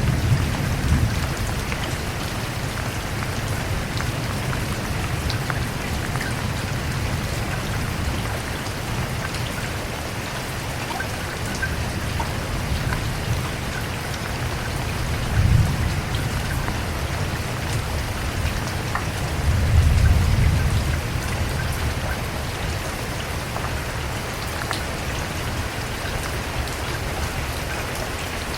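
Steady rain falling, a continuous even hiss of drops, with low rumbles of thunder swelling at the start and twice more in the second half.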